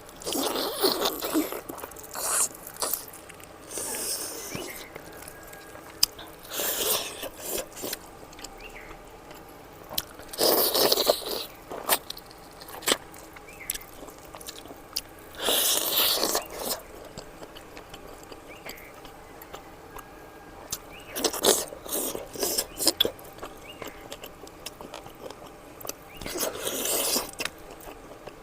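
Close-miked eating of fatty mutton curry: mouthfuls chewed and slurped in short noisy bursts every few seconds.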